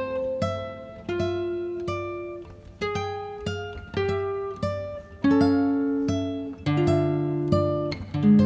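Background music: an acoustic guitar playing plucked chords and notes at an unhurried pace, each ringing out and fading before the next.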